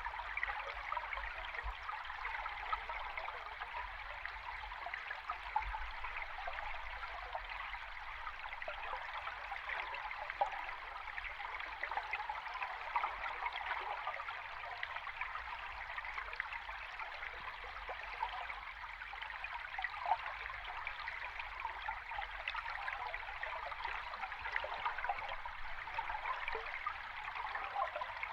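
River stream heard underwater: a steady rush of flowing water dotted with many fine bubbling ticks, over a faint low rumble.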